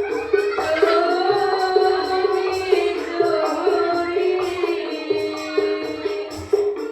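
Voices singing sholawat in the old-style diba'an manner, accompanied by hand percussion beating a steady rhythm.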